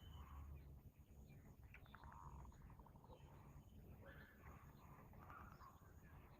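Faint bird calls, short and repeated, over a low steady hum.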